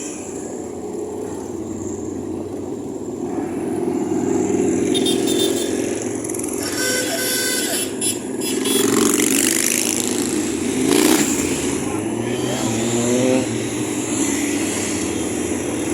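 Motorcycle and car engines passing on a street, some revving, with pitches rising in the second half; crowd voices underneath.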